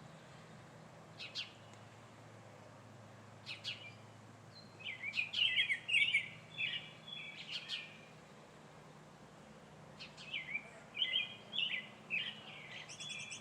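Songbirds singing: a few short sharp call notes, then two runs of whistled, warbling song phrases about five and ten seconds in, with a thin high trill from another bird near the end.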